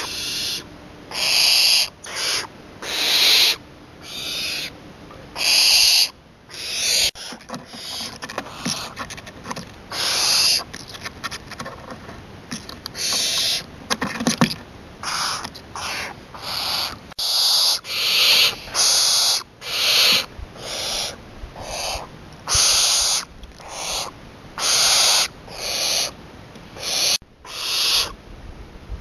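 Young barn owl giving long, repeated hissing screech calls, roughly one a second.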